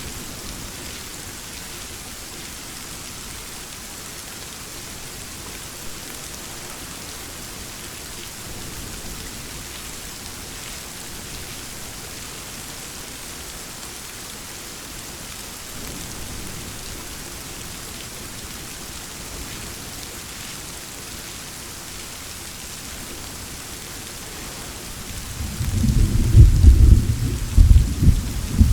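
Steady rain falling, then a loud roll of thunder that rumbles up near the end in several heavy surges.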